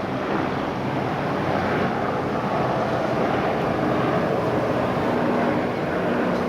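Strong wind blowing over the microphone: a loud, steady rushing noise with no breaks.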